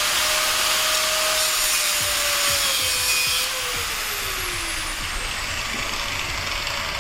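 Angle grinder cutting into the damaged remnant of an old front wheel bearing, a harsh grinding hiss over the motor's steady whine. About three and a half seconds in, the cutting stops and the motor winds down with a falling pitch.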